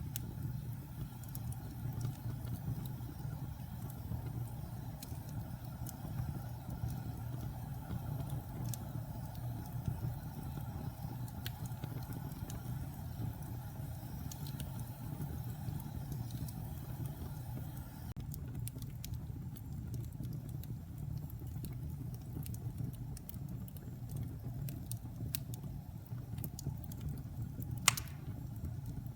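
Log fire burning in a fireplace: a steady low rumble with scattered small crackles, and one sharp, louder pop near the end.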